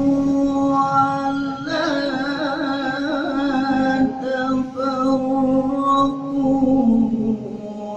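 A man reciting the Quran in melodic tilawah style, holding one long, drawn-out note with wavering ornamental turns in the middle of a phrase.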